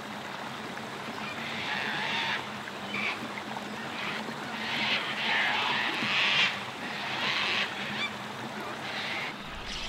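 A series of harsh bird calls, repeated every second or so, over a steady hiss.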